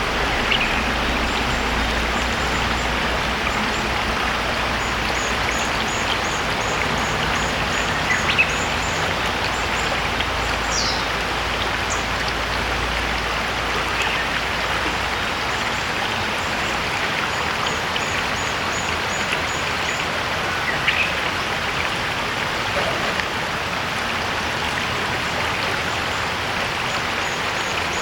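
Shallow river stream running over stones with a steady rushing sound. A few brief bird calls and one short falling whistle come through it, along with bursts of rapid high ticking.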